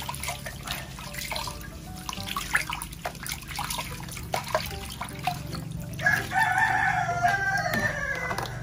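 Water splashing and dripping as a wet kitten is washed by hand in a plastic basin, in quick irregular splashes. About six seconds in, a long drawn-out call starts, lasts over two seconds and falls slightly at the end.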